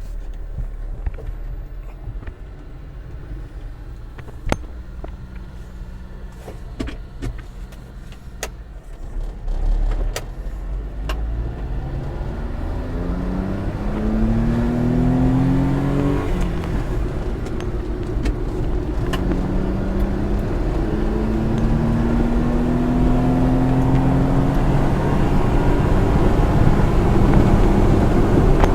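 1993 Suzuki 4x4 mini truck's small three-cylinder engine running steadily, with several sharp clicks, then pulling away and accelerating. Its pitch climbs through each gear and drops at the shifts, heard from inside the cab.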